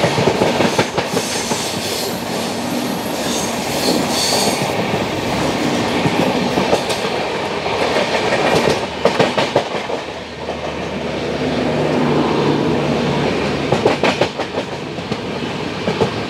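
Passenger train coach running with its wheels clattering over rail joints and crossings. Clusters of clacks come about nine and fourteen seconds in. The running noise is heard from the coach's open doorway.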